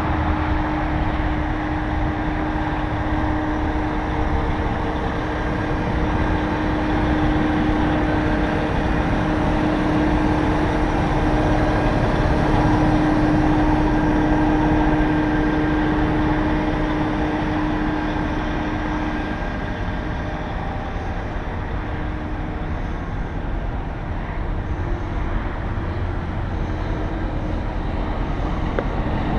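CAT 740B articulated truck's diesel engine running steadily, with a steady whining tone over it that fades out about two-thirds of the way through.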